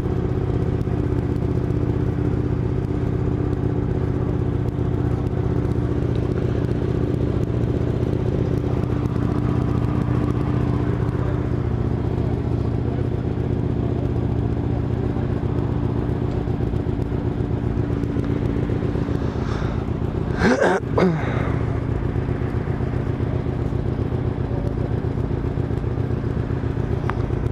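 Motorcycle engine running steadily at a constant speed, with a short, louder, higher sound about twenty seconds in.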